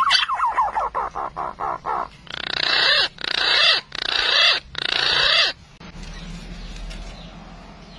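Green pigeon (punai) calls: a rapid run of short, wavering notes, then four harsh, raspy calls about a second each, then a pause.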